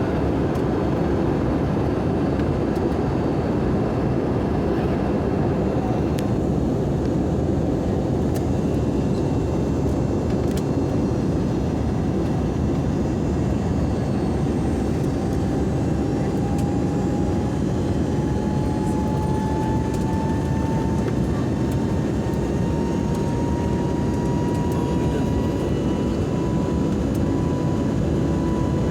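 Steady engine and air noise inside an Airbus airliner's cabin, with a whine that slowly rises in pitch over the second half.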